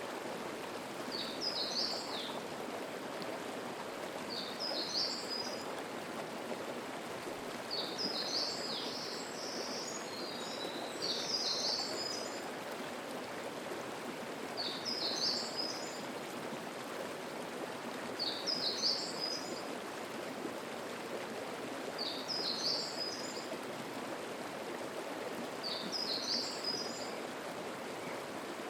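Mountain stream flowing steadily over rocks, with a songbird repeating a short, high song phrase every three to four seconds, sounding twice close together around ten seconds in.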